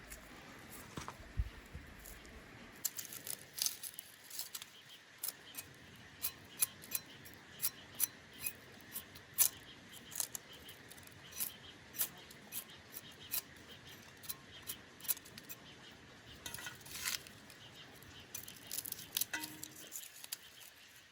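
A run of sharp, crisp clicks or snips, irregular at a few a second, with a denser cluster near the end.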